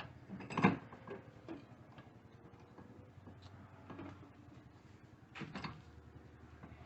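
A few light knocks and clicks, spaced a second or more apart, over a quiet steady background.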